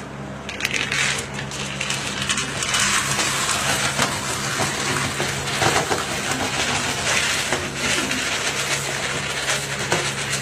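Pigeon feed grain rattling and rushing as it is scooped and poured, a dense continuous rattle that starts about half a second in, over a steady low hum.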